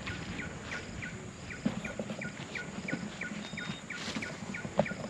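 Jungle animal chorus: a short falling call repeated about twice a second over a steady high-pitched insect drone, with a couple of faint knocks.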